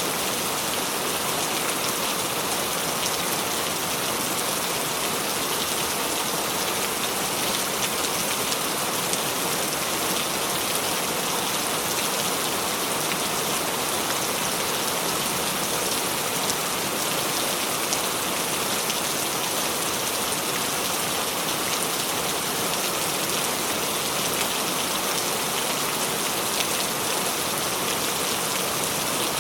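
Steady rain falling, an even hiss of many drops that stays constant throughout.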